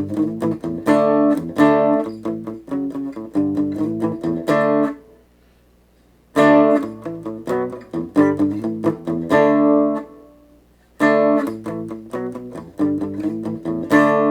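Electric guitar played through a Positive Grid Reactor 50 combo amp on a fairly clean AI-generated tone, in phrases of picked chords and notes. The playing stops briefly twice, about five and ten seconds in.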